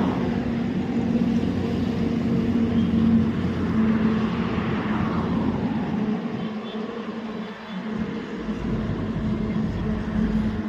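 Heavy truck engine running steadily, a continuous hum with no change in pitch.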